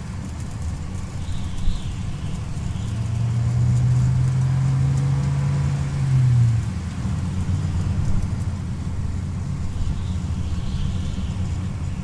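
2008 Toyota Corolla on the move, a steady low road and engine rumble. A stronger engine drone holds for a few seconds in the middle and cuts off about six and a half seconds in.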